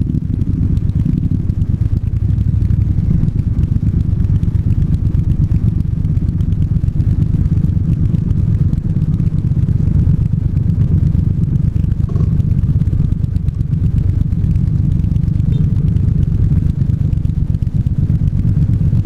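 Triumph 1200 cc parallel-twin motorcycle engine running steadily under way, a low, even engine sound with no big revs.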